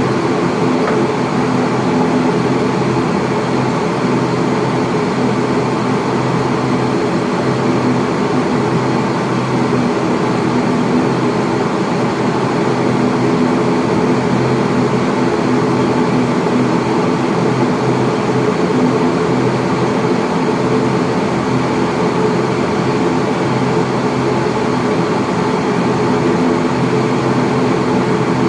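ATR42-600 cabin noise: the Pratt & Whitney PW127M turboprop engines and propellers running at low power while taxiing, a steady drone with several low hum tones.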